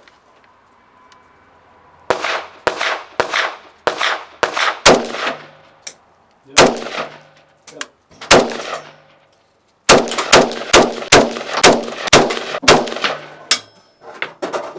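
AK-47 rifle fired as single shots: about six shots roughly half a second apart, two more spaced out, then a faster run of about a dozen shots at roughly three a second, each with a ringing echo.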